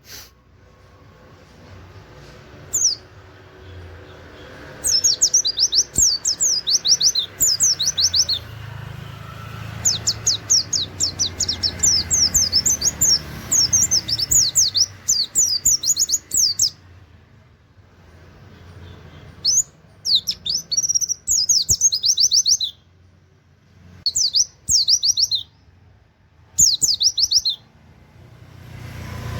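Pleci (white-eye) singing in several long, rapid bursts of quick, high, falling 'wit wit' notes in a canary-like run, with pauses between bursts. A faint low hum runs underneath.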